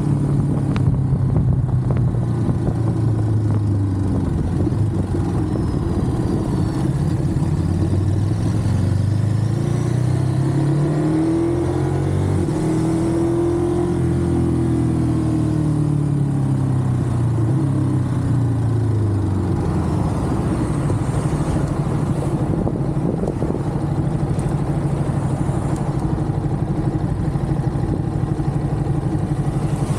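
Ducati Monster's V-twin engine running under way, its pitch rising and falling as the throttle opens and closes.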